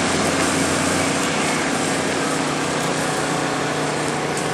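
An engine running steadily at a constant pitch, with an even hiss over it.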